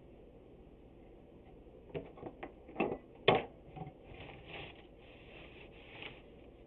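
Several sharp knocks and clatters, like wood and tools being handled on a bench, the loudest just after three seconds in, followed by a couple of seconds of rustling.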